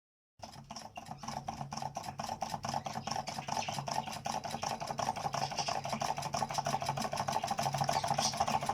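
Model Magrini-style electromagnetic motor running: rapid, regular mechanical clicking, several a second, from its iron bars, rocker linkages and commutator as the electromagnets alternately pull the bars and turn the brass flywheel. It starts about half a second in and grows gradually louder.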